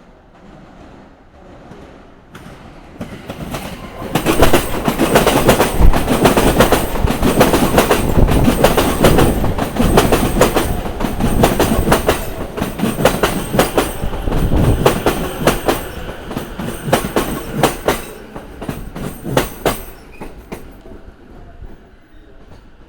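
Train passing over rail joints, its wheels striking the joints in a loud, dense clickety-clack. The sound builds up about four seconds in and trails off near the end into a few separate clacks as the last cars pass.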